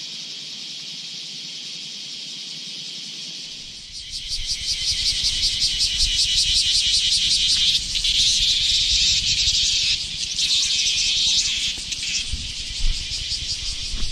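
Cicadas singing: a steady high buzz that grows louder and turns into a fast pulsing drone about four seconds in, with low rumble beneath it.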